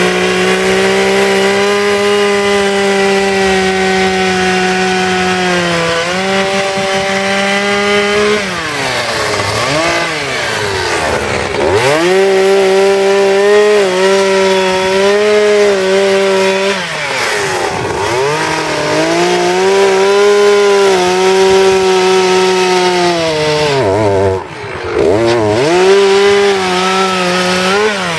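Gasoline chainsaw running at high revs while cutting into wood. The engine note holds steady, then falls away and climbs back up three times as the throttle is eased and reopened.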